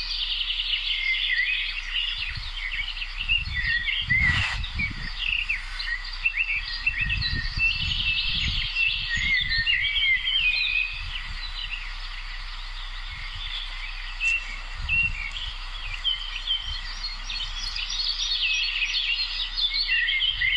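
Spring chorus of several songbirds: many short chirps and trills overlapping without a break. A few low rumbles come and go, about four, eight and fifteen seconds in.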